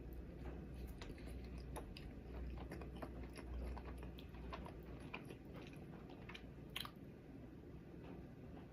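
A person chewing and biting sushi close to the microphone: many short, irregular mouth clicks, one louder than the rest about seven seconds in. A low hum runs underneath through the first half.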